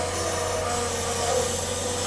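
Log truck's engine and hydraulic unloading gear running steadily: a low hum with a wavering whine over it.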